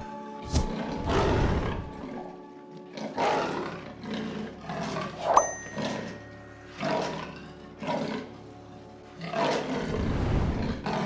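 Lion roaring, a series of separate roars a second or two apart, over background music.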